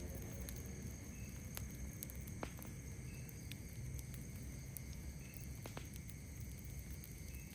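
Campfire crackling, a few sharp pops spaced a second or two apart, over a steady high drone of night insects and a low rumble. A short high chirp repeats about every two seconds.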